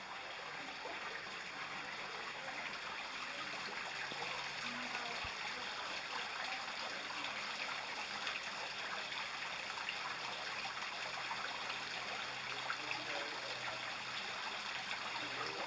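Running water splashing and trickling steadily, like a small stream or water feature, getting slightly louder as it goes on.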